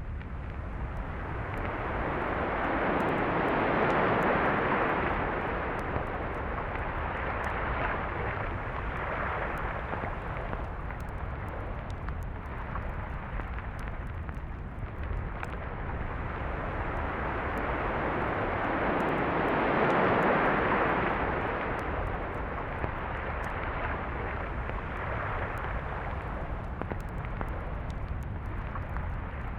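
Surf on a beach: a steady rush of breaking and washing waves that swells up twice, about four seconds in and again around twenty seconds, and eases back between.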